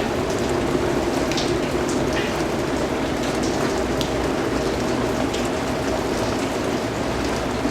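Steady rain falling on a surface, a continuous hiss with individual drops pattering through it.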